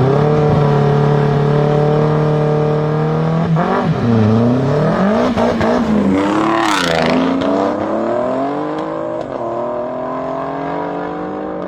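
Car engine held at steady revs, then revving up and down, and a car accelerating hard past about six to seven seconds in, its pitch falling as it goes by; engine sound rises again and settles steady near the end.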